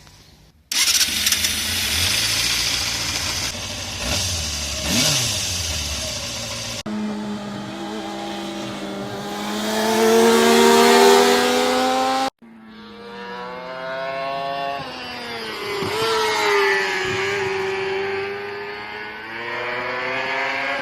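Yamaha FZR250R's 250 cc inline-four engine running hard in a few short clips, its pitch climbing steadily under acceleration, then dropping and climbing again.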